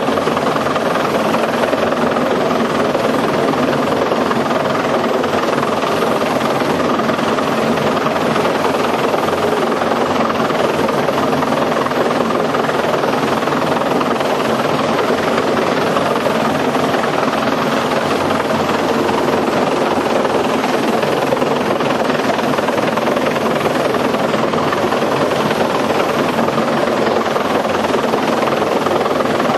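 Helicopter cabin noise in flight: the engine and rotors making a loud, steady drone that does not change throughout.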